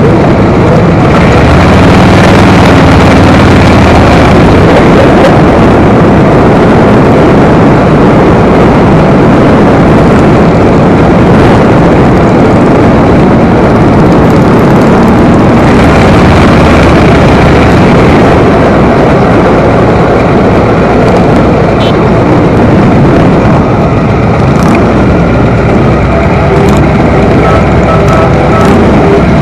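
Motorcycle on the move, its engine running under a loud, steady rush of wind on the microphone. A few steadier engine tones stand out near the end.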